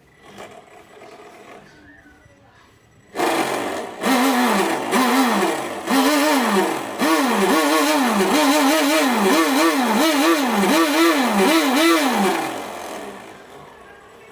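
A small motor revved up and down over and over, about twice a second, starting suddenly about three seconds in and dying away near the end.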